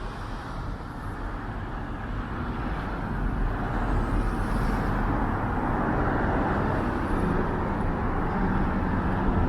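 Street traffic: cars going by, a steady road rumble that grows louder over several seconds as vehicles approach.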